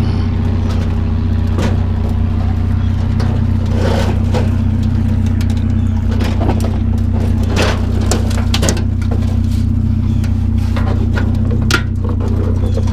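Truck engine idling steadily, with scattered metal clanks and knocks as a metal barbecue grill is handled and loaded into the truck.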